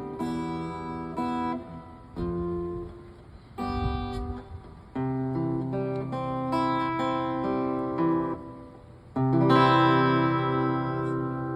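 Acoustic guitar playing strummed chords without singing, struck every second or so and then left to ring longer, with a last full chord about nine seconds in.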